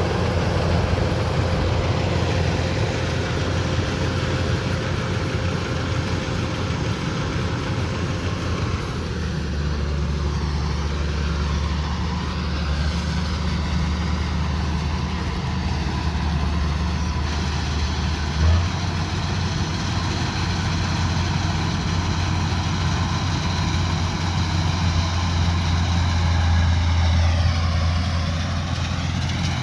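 Diesel engine of a Kubota DC-105X combine harvester running steadily, with a single sharp knock about eighteen seconds in and a whine that dips in pitch and recovers near the end.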